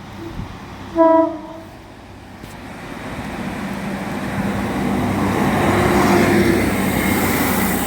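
Class 156 Super Sprinter diesel multiple unit sounds one short horn blast about a second in, then approaches the platform, its engine and wheel noise building steadily louder.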